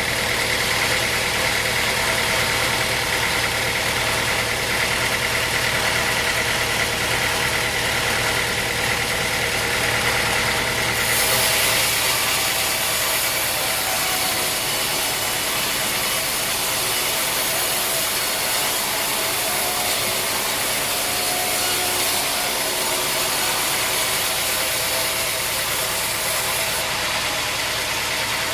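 Sawmill machinery running steadily: an engine-driven saw with a constant droning hum. About eleven seconds in a brighter high hiss joins it, and it drops away again shortly before the end.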